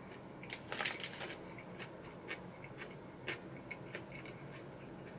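Close-miked chewing with the mouth closed: soft wet mouth clicks and smacks, a short cluster about a second in, then scattered single clicks.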